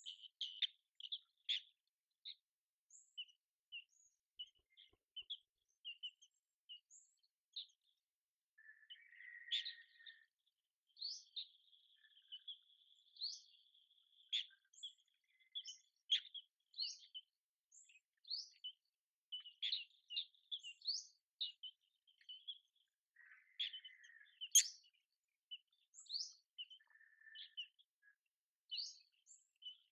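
Birds chirping: many short, high chirps scattered irregularly, with a steady trill lasting a few seconds about a third of the way in and a few lower buzzy notes now and then.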